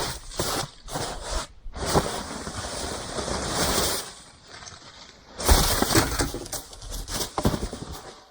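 Thin sheet metal being handled and bent by hand: irregular clattering, crinkling and knocks, with the loudest knock about five and a half seconds in.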